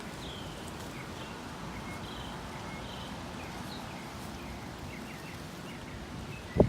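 Steady gusty wind noise with small birds chirping again and again, and a sharp thump right at the end.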